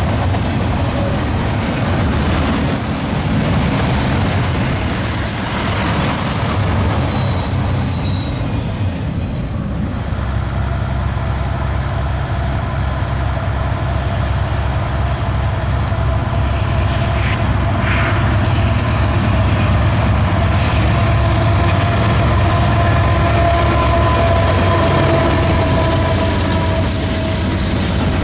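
Double-stack intermodal freight cars rolling past on the rails with wheels squealing. About ten seconds in, this cuts to a second double-stack intermodal train led by Norfolk Southern diesel locomotives, their engines running with a steady low drone and a steady whining tone as they pass.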